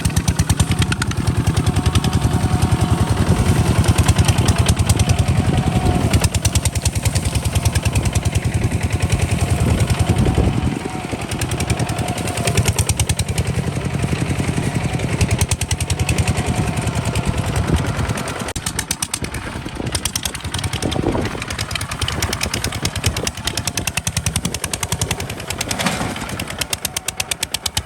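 Kubota RT 140 DI single-cylinder diesel engine running with a rapid, even firing beat. It is louder at first and drops in level about ten seconds in.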